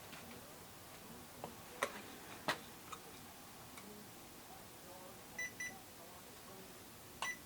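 A few sharp handling clicks, then two short electronic beeps a fraction of a second apart about five and a half seconds in, and another near the end. These are button presses on a ghost-hunting detector as its settings are set.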